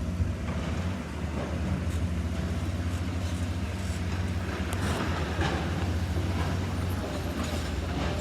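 Heavy diesel machinery running steadily in a quarry, a low even engine drone, with a few faint knocks about five seconds in and near the end.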